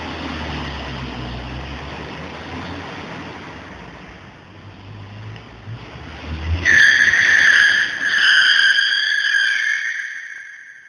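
Car engine running with a rushing noise that fades over the first few seconds. About two-thirds of the way in, a loud, long, high tire squeal starts as the tires lose grip in a drift, then trails off near the end.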